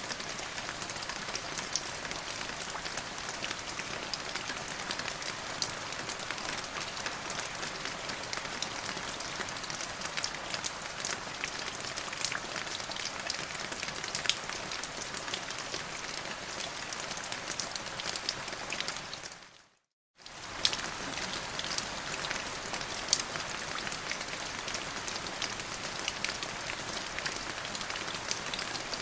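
Steady rain falling on a surface, an even hiss with many sharp individual drop ticks. About two-thirds of the way through it fades out to a moment of silence, then resumes just as before, like a join in a looped recording.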